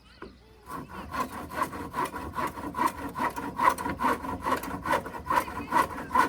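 Hand saw cutting through wood in quick, even back-and-forth strokes, about three a second, starting just under a second in, with a ringing tone from the blade.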